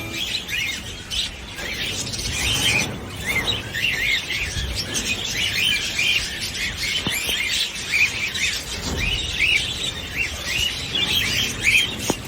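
A flock of small pet parrots chirping and chattering: many short, quick chirps overlapping one another without a break.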